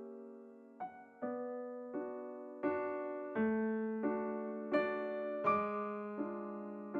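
Background solo piano music: gentle chords and notes struck roughly every 0.7 seconds, each ringing and fading before the next.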